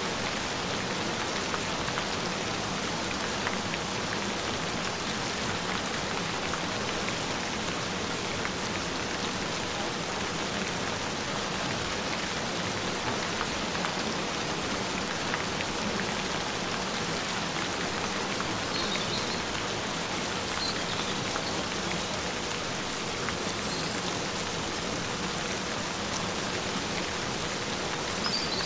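Steady gentle rain falling, an even patter, with a faint steady tone held underneath. A few brief high chirps come through in the second half.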